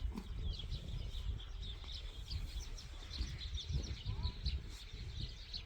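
Many small birds chirping busily, short high chirps overlapping without pause, over a low rumble.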